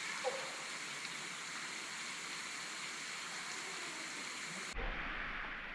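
Steady rushing of a waterfall pouring over a cliff nearby. About three-quarters of the way through, the sound changes abruptly: it turns duller, with a low rumble under it.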